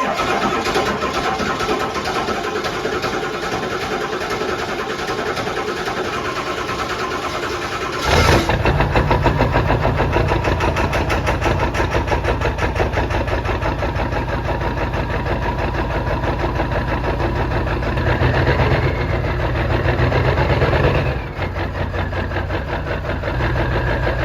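2003 Ford 7.3 Powerstroke V8 turbo diesel cranking on the starter for about eight seconds, then catching and running through a straight-piped exhaust with a fast, rough pulse, a little louder for a few seconds near the end. It is the first start on new 180cc injectors, with injectors 3 and 7 misfiring.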